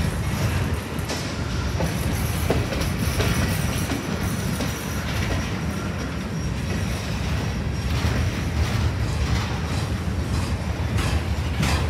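Freight train of covered hoppers, a boxcar and a gondola rolling past: a steady low rumble of wheels on rail, with clacks over the rail joints that come sharper and more often near the end.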